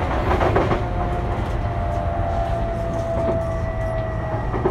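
Sotetsu 12000 series electric train running, heard from inside a passenger car: a steady low rumble with a thin whine that sinks slightly in pitch. A few knocks from the wheels come about half a second in and again near the end.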